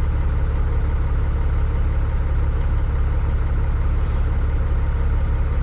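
Caterpillar 3406E inline-six diesel of a Freightliner FLD120 semi truck idling steadily while parked, heard from inside the cab as a constant low hum.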